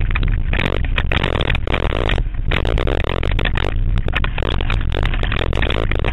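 Banger race car running hard with a steady engine rumble under dense metallic clattering and scraping from car bodywork knocking together.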